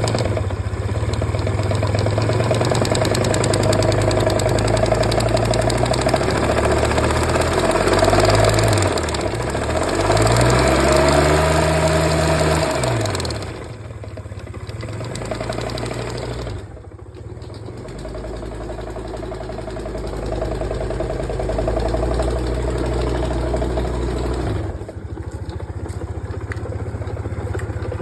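Suzuki Let's 4 scooter's small four-stroke engine running, revved up and back down twice about a third of the way in, then settling to a steady idle.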